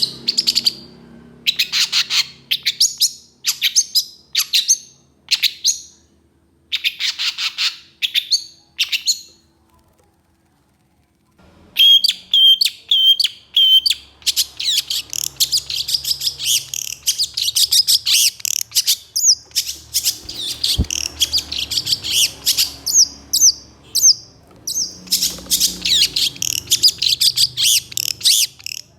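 Long-tailed shrike (cendet) singing in rapid runs of harsh, scratchy notes, the coarse 'tembakan' bursts. It goes quiet for a moment near the middle, then starts a long, dense run of fast notes with a few clear whistles mixed in.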